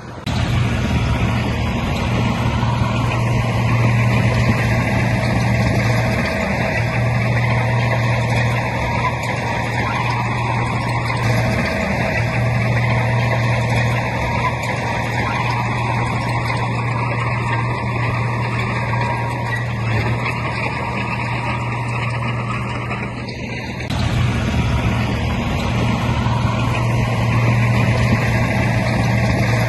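Heavy diesel engine of earthmoving machinery running steadily under load, with a low, even hum that briefly drops off about three-quarters of the way through before picking up again.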